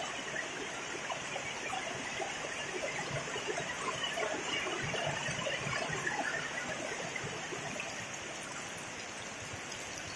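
Heavy rain falling, a dense steady patter of drops that swells a little in the middle.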